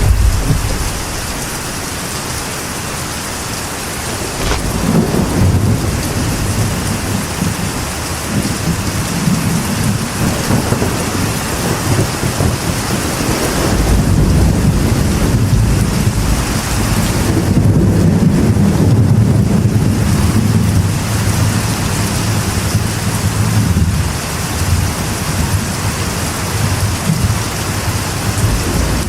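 Steady rain falling on a metal roof, with thunder rumbling low underneath; the rumble comes in about four seconds in and is heaviest around the middle.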